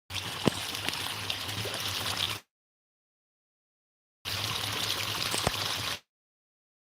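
Running water, heard as a steady rush with a few sharp clicks, in two stretches of about two seconds each; the sound cuts out completely between them and near the end.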